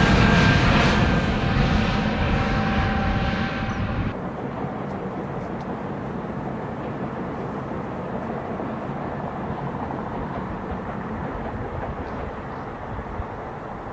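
Jet airliner engines passing, a loud rush with a steady whine, fading away; the sound drops off suddenly about four seconds in, leaving a quieter steady rumble.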